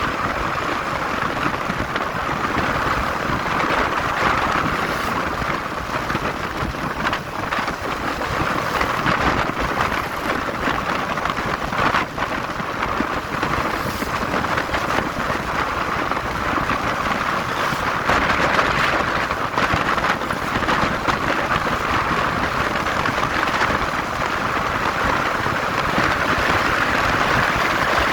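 Motorcycle on the move: a steady rushing noise of wind and engine, the wind buffeting the rider's microphone.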